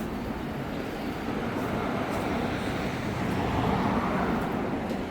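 Steady vehicle noise, swelling a little about three and a half seconds in.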